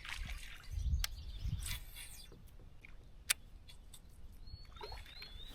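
A bird chirping a few short notes near the end, over low rumbling and a few sharp clicks.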